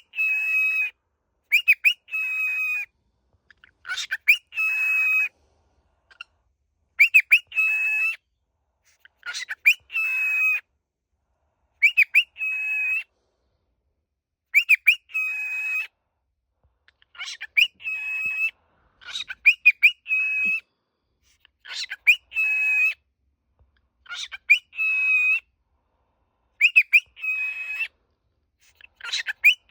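Cockatiel calling over and over, roughly every two to three seconds: each call is a couple of quick sweeping chirps followed by a held, steady whistle-like note.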